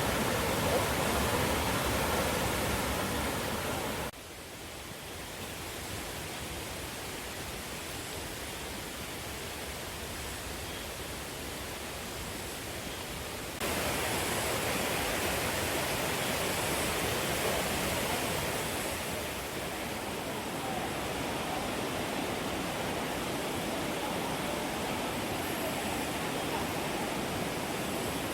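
Mountain stream rushing over rocks, a steady full water noise. It drops suddenly to a softer rush about four seconds in and comes back up to full strength about fourteen seconds in.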